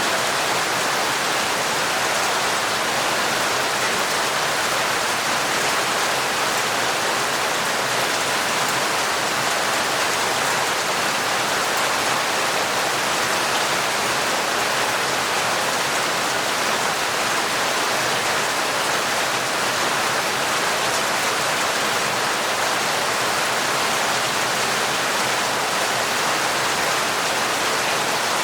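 Heavy, torrential rain falling steadily, an even hiss of water with no breaks or distinct drops standing out.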